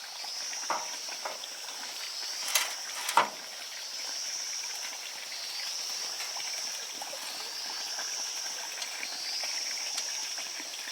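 A steady high-pitched buzzing that swells and fades about every two seconds, with a few sharp knocks in the first few seconds.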